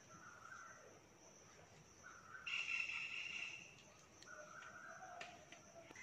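Faint outdoor ambience of distant birds calling, with a faint steady high-pitched line underneath. The loudest call starts about two and a half seconds in and lasts about a second.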